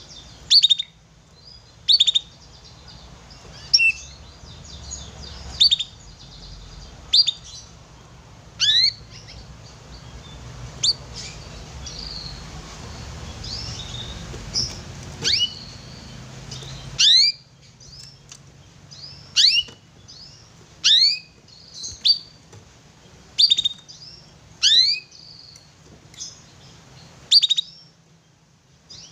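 Young canary calling: short, sharp chirps that fall quickly in pitch, repeated roughly every one to two seconds. A faint low hum sits underneath for the first half and stops about halfway through.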